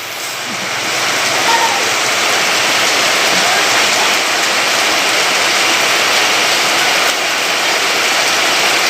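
Heavy rain pouring down steadily, a dense even wash of falling water.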